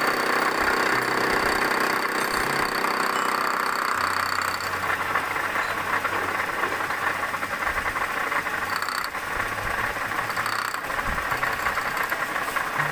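Milling machine running, with a strong cutting noise that weakens about five seconds in, leaving a steady low hum from the machine.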